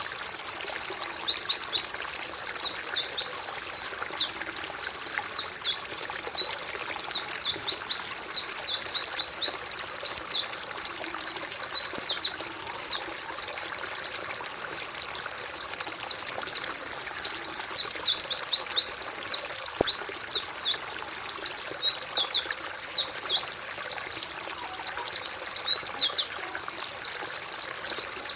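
White-eyes (pleci) chirping in a dense, unbroken stream of quick, high notes that slide downward, over a steady trickle of running water. This is a therapy tutor track, used to coax lazy caged pleci into singing.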